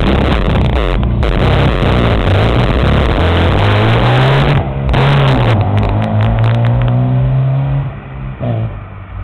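1997 Volkswagen GTI's loud engine and exhaust accelerating away. The pitch climbs for about four seconds, dips once, holds steady, then fades near the end as the car pulls off.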